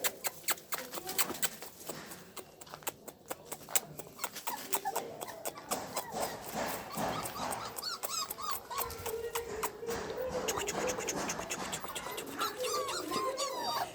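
Puppies whimpering and squeaking: short, wavering high cries that grow more frequent about halfway through, with one longer held cry, over a steady run of quick ticking sounds.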